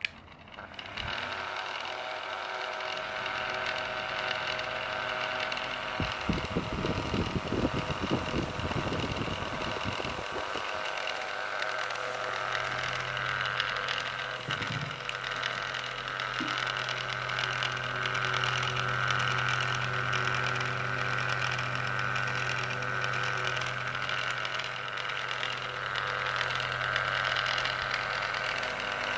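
Vintage Nikota electric table fan switched on with a click, its motor coming up to speed within about a second and then running steadily with a hum and the whir of its blades. A rough rattle comes in for a few seconds about six seconds in, and a deeper steady hum joins soon after.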